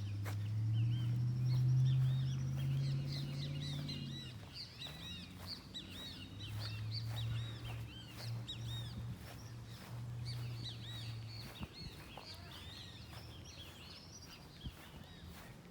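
Many small birds chirping over a low steady engine hum from traffic, the hum loudest for the first four seconds and again from about six to eleven seconds in.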